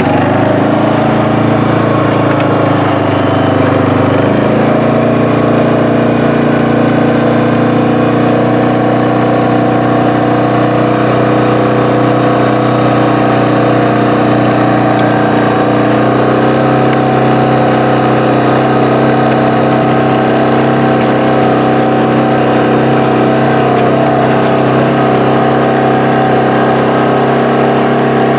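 An engine idling steadily, its note shifting slightly about four seconds in and again around sixteen seconds.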